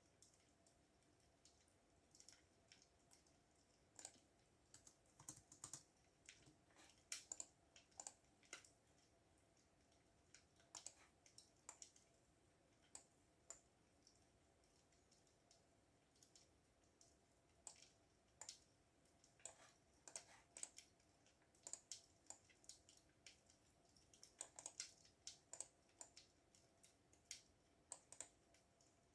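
Computer keyboard typing: quiet key clicks in irregular bursts with short pauses between.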